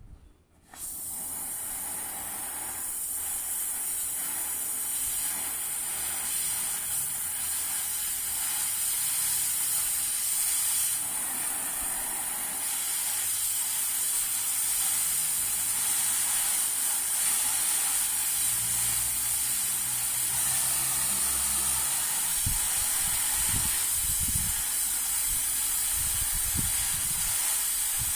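A steady hiss of compressed air that starts abruptly about a second in and keeps going, with a few low thumps near the end.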